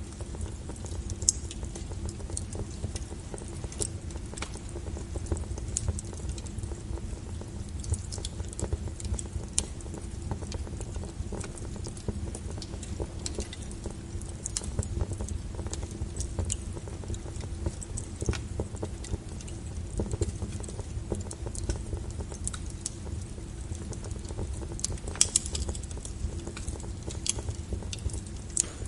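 Wood fire burning, with irregular sharp crackles and pops over a low steady rumble; a couple of louder snaps stand out about a second in and near the end.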